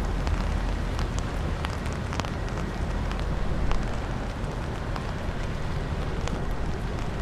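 Strong wind buffeting the microphone with a steady low rumble, with scattered sharp ticks of light rain through it.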